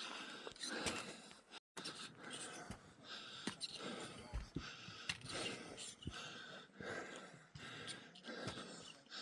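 A hiker breathing hard while walking uphill, in repeated heavy breaths about once a second, with occasional light clicks. The audio drops out briefly a little under two seconds in.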